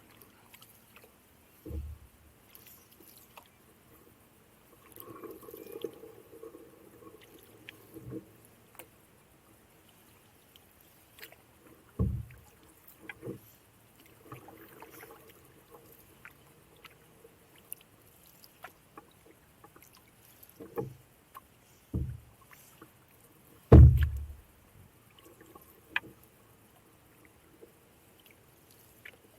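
Canoe paddling: soft paddle strokes in the water, with about seven sudden hollow knocks against the canoe's hull, the loudest one late on.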